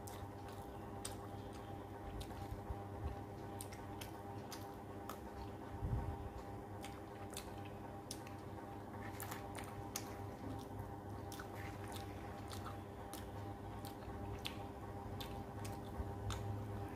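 Mouth sounds of someone eating curry-soaked rice and fish by hand: wet chewing and lip smacks, heard as a steady run of small clicks over a low steady hum.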